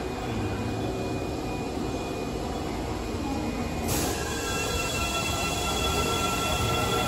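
Train running on rails with a steady high-pitched squeal; about four seconds in there is a sudden burst of noise, and the squeal grows louder with more high tones.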